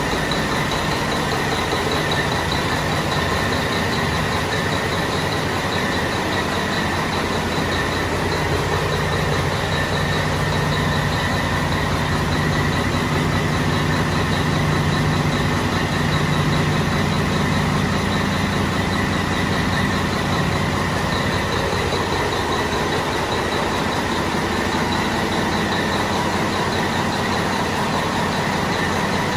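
Caterpillar C-12 inline-six diesel engine running steadily on a dynamometer, with a steady high whine over the engine drone. Its low note strengthens and shifts slightly around the middle, then settles back.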